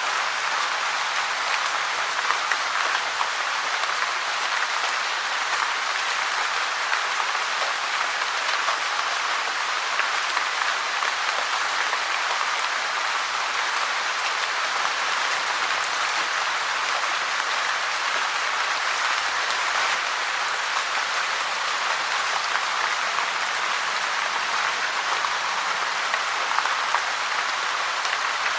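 Steady rain: a dense, even hiss of many fine drops, unchanging throughout.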